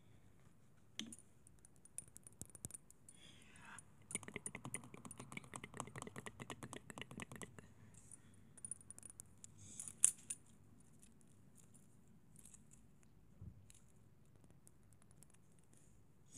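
Faint small clicks and taps from objects being handled close to the microphone, with a quick run of rapid tapping about four seconds in and a sharper click near the end of that stretch.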